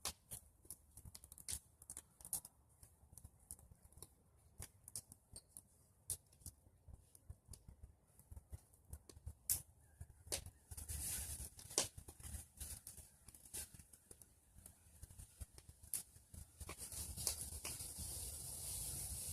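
Bonfire of pruned tree branches crackling, with irregular sharp pops and snaps. From about ten seconds in, a louder rustling noise joins.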